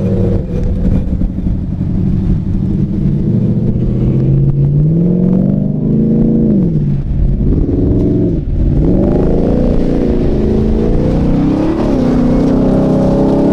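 2023 Ford Raptor R's supercharged 5.2-litre V8 running under throttle. The revs climb and drop back twice around the middle, then hold higher.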